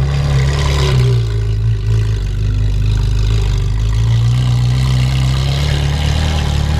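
Noisy car engines running with a steady low rumble as cars pull in, the pitch shifting slightly about four seconds in.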